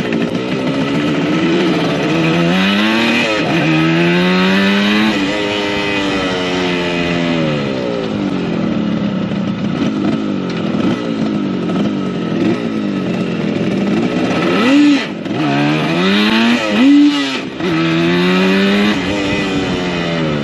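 1975 Yamaha RD200's two-stroke twin engine accelerating through the gears, its pitch climbing and then dropping at each shift. It settles lower as the bike slows, then revs up and drops off quickly several times near the end.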